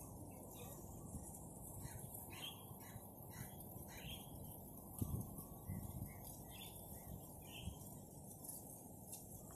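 Faint birds calling in the trees, a scattered series of short chirps over a low, steady background noise.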